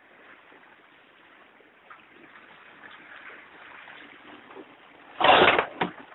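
Water rushing along the hull of a sailing dinghy, with a loud short burst of splash or wind noise about five seconds in and a smaller one just after.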